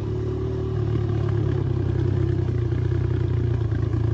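Dirt bike engine running steadily while riding, getting a little louder about a second in.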